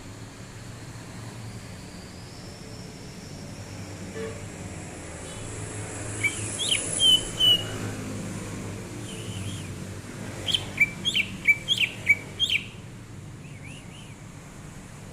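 Green leafbird (cucak ijo) singing: a short phrase of sharp whistled notes about six seconds in, then a quicker run of about eight short whistled notes later on, over steady low background noise.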